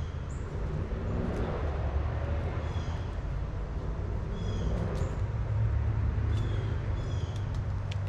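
Short, high bird calls repeated every couple of seconds over a steady low outdoor rumble, with a few sharp ticks in between.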